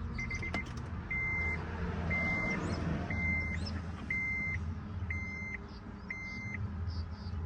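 Honda Odyssey dashboard warning chime sounding after the ignition is switched on without the brake pressed: a short chirp, then six beeps at one pitch about a second apart, over a steady low hum.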